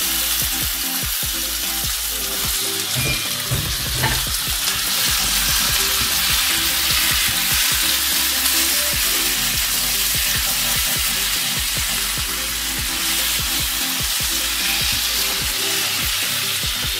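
Pressure-cooked vegetables sizzling in hot oil in an electric frying pan, stirred with a silicone spatula that knocks and scrapes against the pan in many short clicks over the steady sizzle.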